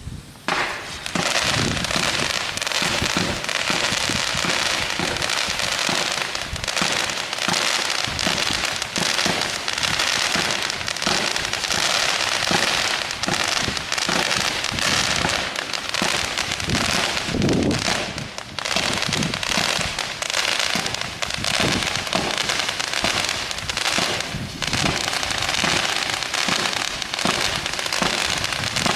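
A 49-shot star chaser fireworks cake firing: a rapid, unbroken stream of shots and bangs that starts about half a second in and keeps going without a pause.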